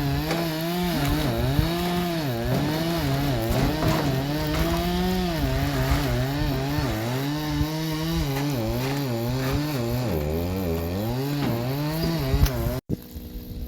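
Chainsaw running and cutting pine logs for firewood, its engine pitch rising and dipping again and again as it works through the wood. The sound stops abruptly near the end.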